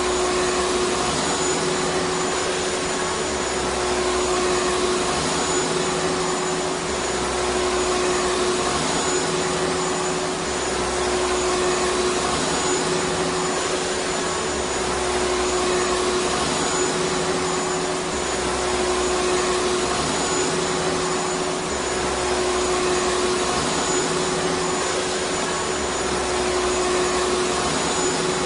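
Vacuum cleaner running steadily: a constant rushing of air over a steady motor hum, with a faint low throb that comes and goes every three to four seconds.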